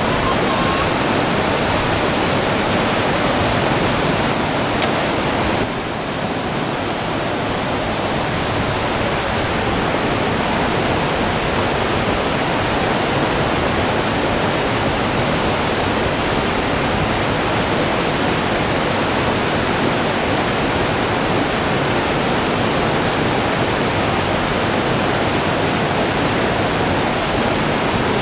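Whitewater of a two-step drop rapid on the Yoshino River rushing steadily and loudly, with a slight dip about six seconds in.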